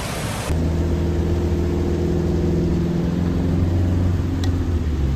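A brief hiss of rain, then about half a second in a cut to a vehicle engine running with a steady low drone.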